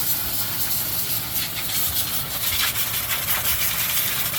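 High-pressure water spray hissing steadily as mud is washed off a tractor, over the steady hum of a running engine.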